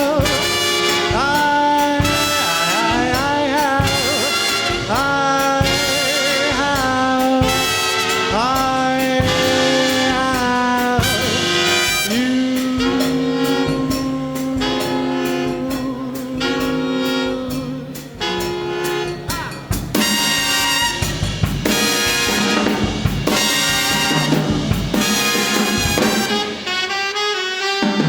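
Live big band playing an instrumental passage in a swing jazz arrangement: brass and saxophone section holding and bending notes over a steady drum beat.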